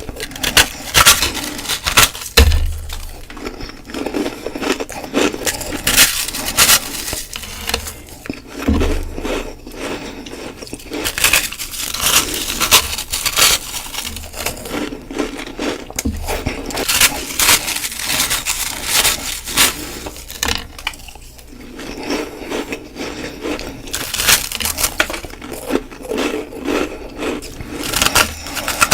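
Ice being bitten and chewed close to the microphone: a dense run of sharp, crackling crunches with brief pauses, and a couple of low thuds about two and nine seconds in.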